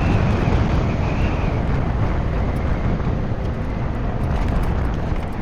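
Wind buffeting the microphone with road noise while riding a 96-volt electric motorcycle, a steady low rumble. A faint high whine fades out in the first second and a half.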